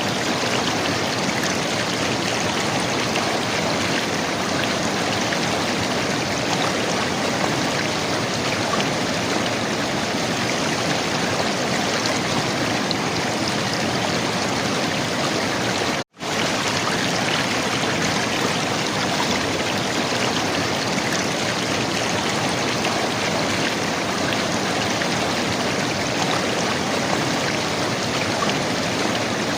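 River water gurgling and rushing steadily. About halfway through there is a split-second gap of silence.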